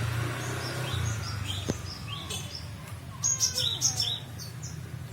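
Small bird giving short high chirps, scattered and then a quick run of several about three seconds in. A faint low hum fades in the first second, and a single sharp click comes just under two seconds in.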